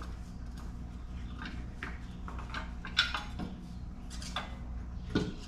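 Scattered light metallic clinks and knocks of strut parts being fitted together by hand on a compressed coil-over strut, the sharpest about three seconds in, over a steady low hum.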